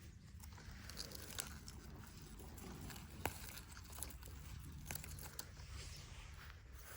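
Weeds being pulled by hand: soft, scattered tearing and rustling of grass and leaves, with a few light clicks.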